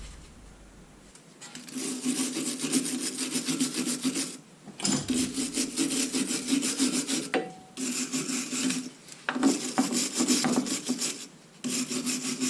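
Rapid back-and-forth scrubbing strokes on rusty metal with a hand tool, in five bouts separated by short pauses.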